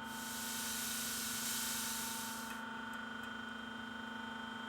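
Air hissing out of a truck tyre's valve with the valve insert removed, for about two and a half seconds before cutting off. A steady faint hum continues underneath.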